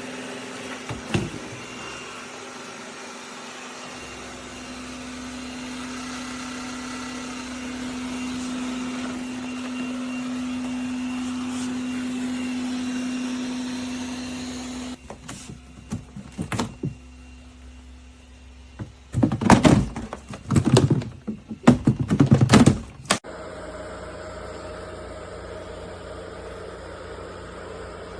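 Eureka E20 Plus robot vacuum and mop running with a steady motor hum that grows louder over the first dozen seconds, then drops off about fifteen seconds in. A cluster of loud knocks and rattles follows about twenty seconds in, then a lower steady hum.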